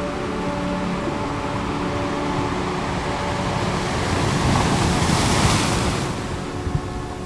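Ocean wave washing in: the surf hiss swells about halfway through, peaks and then falls away near the end. Underneath, a soft drone of steady held tones continues.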